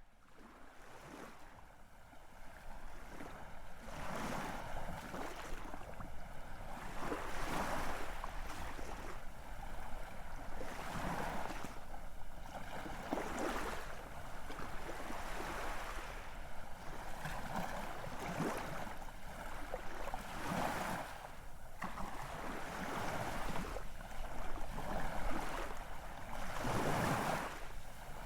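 Ocean surf: a rushing hiss of waves that swells with each wave every few seconds, fading in over the first few seconds.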